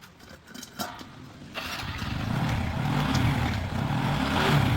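Motorcycle engine starting about a second and a half in and running steadily, a little louder towards the end, as it is tried out after an inner-tube puncture repair.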